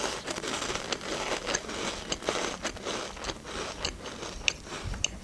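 Close-miked chewing of a crisp cream-filled cracker sandwich: continuous crunching with many small sharp crackles.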